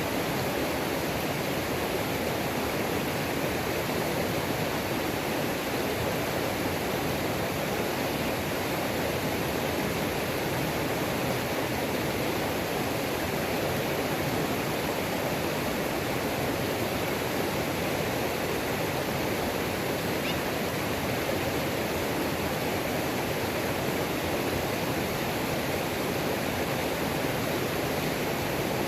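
Waterfall on a creek rushing steadily: an even, unbroken sound of falling water with no change through the whole stretch.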